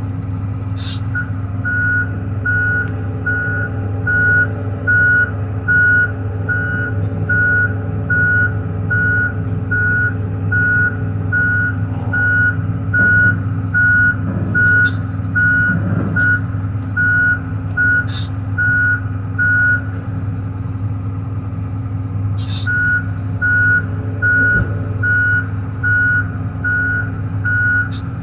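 John Deere 245P excavator's diesel engine running steadily while its travel alarm beeps about one and a half times a second as the machine tracks. The beeping stops for a couple of seconds past the middle, then resumes, and a few sharp clanks sound now and then.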